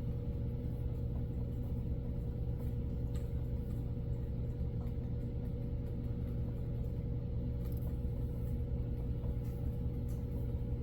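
Steady low mechanical hum with a constant pitch, unchanging throughout.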